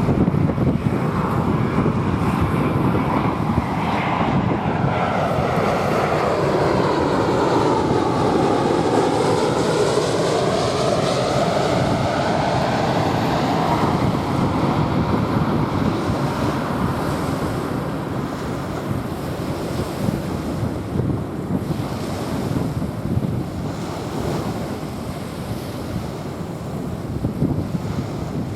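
A jet airliner passing overhead, its engine noise sweeping with a phasing whoosh and fading off through the second half, over small waves washing onto a sandy shore and wind on the microphone.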